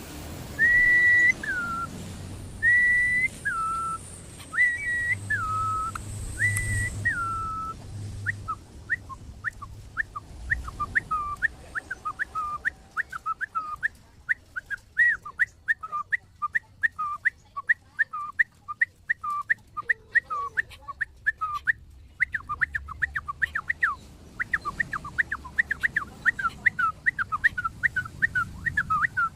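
Hill myna whistling. It gives about four long notes, each held high and then dropping, about two seconds apart. From about eight seconds in comes a fast run of short falling whistles, several a second.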